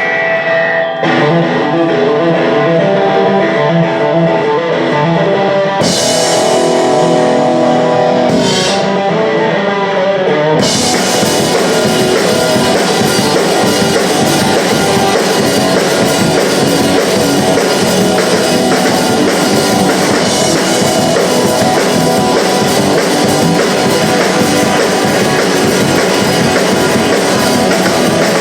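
Live punk rock band playing an instrumental passage. The electric guitar is picked alone at first, cymbals come in around six seconds, and the full band with driving drums kicks in at about ten seconds.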